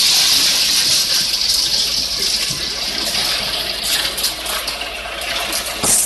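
Wet concrete gushing steadily into the foundation formwork as it is poured.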